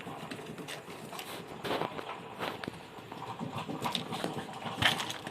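Irregular light clicks and taps of small tools and electronic parts being handled on a repair bench, with a sharper knock near the end.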